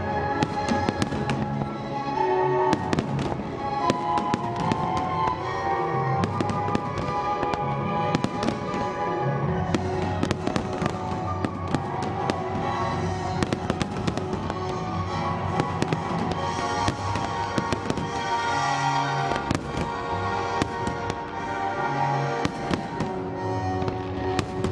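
Aerial firework shells bursting in a dense, irregular run of sharp bangs and crackles, over the display's music soundtrack playing along.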